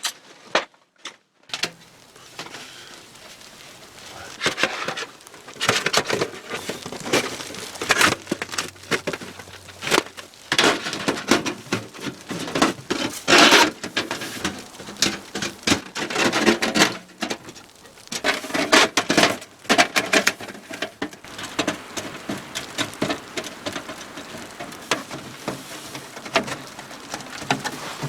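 Irregular rustling, crinkling and light clicking of nylon tent fabric being handled while the inner tent is set up, in uneven bursts throughout.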